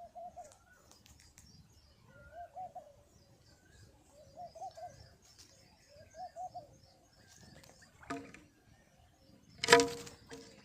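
Pigeons cooing, a short wavering coo about every two seconds. Near the end come a quick clatter and then a louder one, which sounds like wings flapping.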